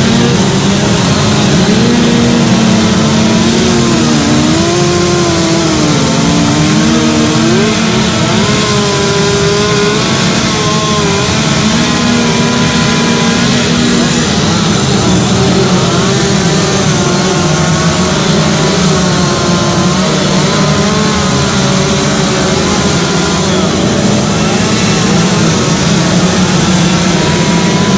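Chainsaws running continuously while carving wood, their pitch wandering up and down as the saws are revved and loaded in the cut.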